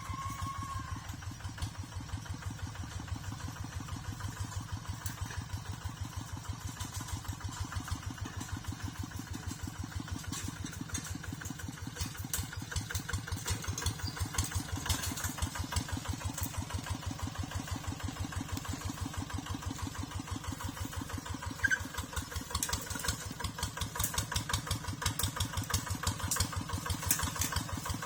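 Tractor engine running steadily with an even chugging beat. Sharper clicks and knocks join in over the second half.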